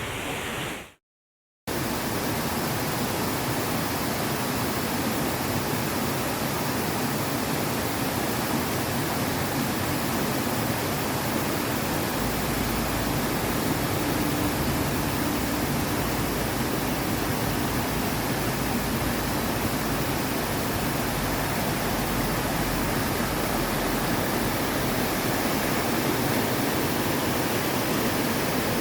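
Waterfall: a steady, even rush of falling water, broken by a short drop-out to silence about a second in.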